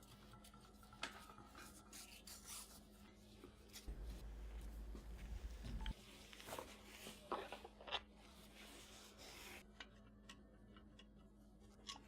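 Faint clicks, taps and rubbing of small metal lamp fittings being handled and fitted to a bronze lamp base, with a low hum for about two seconds in the middle.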